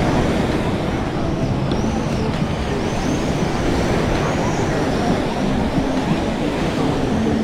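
Steady outdoor rushing noise with faint indistinct voices, and short high chirps repeating throughout.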